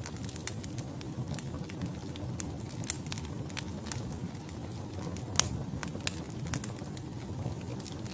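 Wood fire burning in a fireplace: a steady low rumble of flames with irregular sharp crackles and pops from the logs, two of them louder about five and six seconds in.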